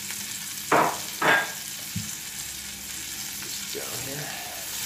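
Chicken, garlic and capers frying in butter in a pan, a steady sizzle. There are two brief loud bursts close together about a second in, and tongs move the chicken in the pan near the end.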